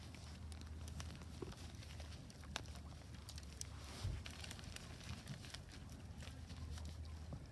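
Wood fire crackling in a Solo Stove Ranger fire pit: scattered small pops and snaps over a steady low rumble, with a louder pop about four seconds in.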